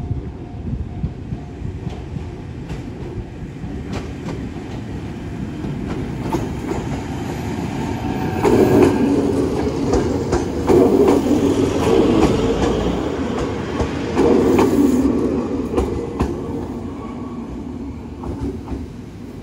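Hokuriku Railroad 03 series electric train arriving past the level crossing, its wheels clattering over the rails. It grows louder as the cars go by close, loudest from about eight to sixteen seconds in, then fades as it runs on into the station.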